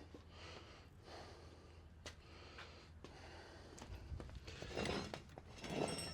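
A man breathing heavily and snorting through a congested nose while straining, with a few faint knocks in between.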